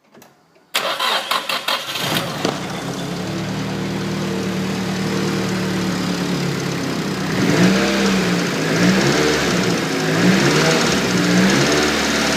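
Nissan SR20DET turbocharged four-cylinder cranked by the starter for about a second, catching and settling to idle, then given a few light blips of throttle that make its pitch rise and fall. It runs with the ticking noise that the owner takes for a hydraulic lifter tick, still there after the lifters were bled twice and the VVT was replaced with HKS 264 cams.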